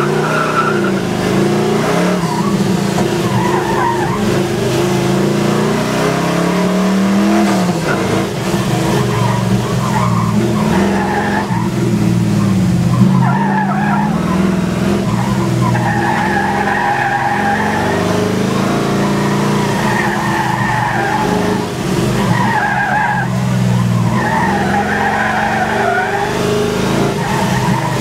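Engine heard from inside the cab of a vehicle driven hard through an autocross cone course, revving up and falling back over and over, with tyres squealing in the turns.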